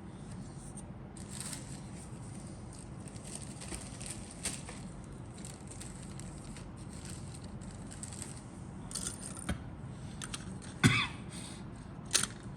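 Plastic model kit parts and packaging being handled: rustling and light clicks, with a sharp knock about eleven seconds in and another near the end, over a steady low background hum.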